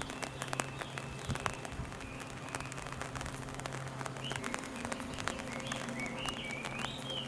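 Outdoor ambience in light rain: scattered raindrops ticking, over a steady low hum. From about halfway, a bird gives a run of short, high chirping notes that rise and fall.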